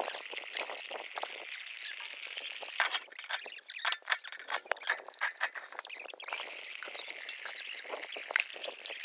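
Metal pots and utensils being scoured by hand: a scratchy scrubbing with irregular clinks and knocks of metal on metal, thickest in the middle.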